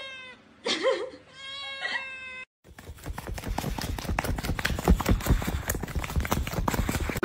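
A cat yowls three drawn-out meows, each held steady on one pitch. After a sudden cut comes a loud, dense, crackling noise that runs close up on the microphone.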